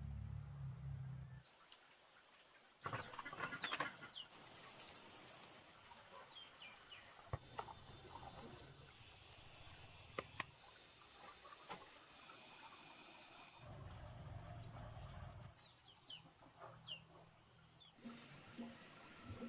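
Countryside ambience: insects trilling steadily at a high pitch, with a few short bird chirps, scattered knocks and rustling, and brief low rumbles at the start and about two-thirds of the way through.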